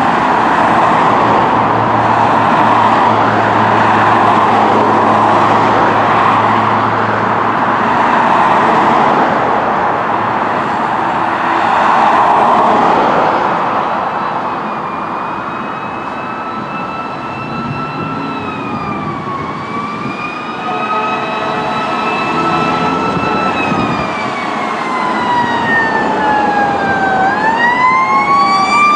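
Emergency-vehicle siren on responding fire apparatus, heard over loud road noise from the passing units for the first half. An electronic wail then rises and falls slowly, sweeps down and climbs again near the end.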